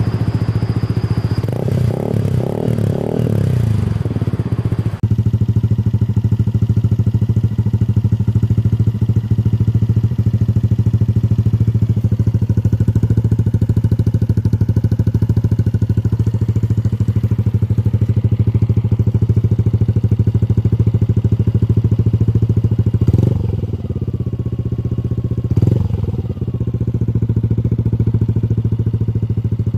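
Yamaha Aerox 155 scooter's single-cylinder four-stroke engine through an aftermarket exhaust, revving up and down, then after an abrupt change about five seconds in, idling steadily with two short throttle blips near the end.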